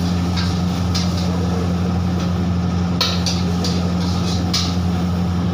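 Stir-frying in a wok: a metal spatula scraping and tossing the noodles in repeated short strokes, over a steady low hum.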